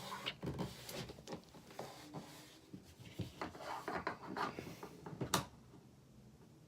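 Rustling, rubbing and small clicks and knocks of objects being handled, with one sharp click about five seconds in.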